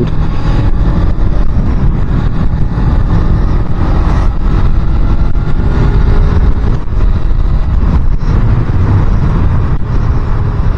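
Small Suzuki motorcycle running steadily on the road, its engine note half-buried in a dense low rush of wind and road noise.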